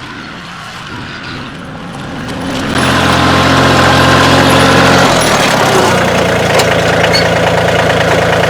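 Kioti CK2610 compact tractor's diesel engine running, growing much louder about a third of the way in as it is throttled up. Its note changes near the middle, then it runs steadily.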